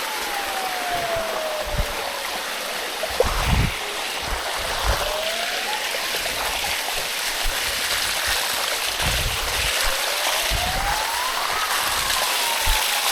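Water flowing over a smooth rock water slide, a steady rush, with a few low bumps scattered through it and a faint tone that slowly rises and falls.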